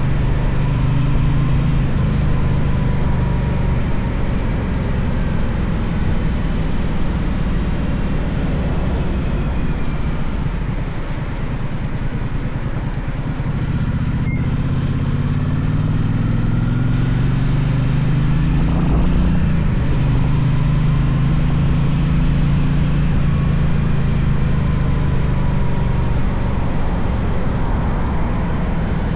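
Gaokin GK1200 motorcycle engine running on the move, with wind and road noise. About halfway through the revs drop, then climb steadily as the bike accelerates, and the engine settles into a steady cruise.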